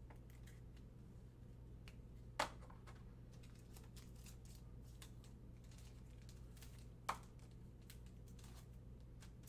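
Faint, irregular clicks and taps of trading cards being handled and set down, with two sharper clicks about two and a half seconds and seven seconds in.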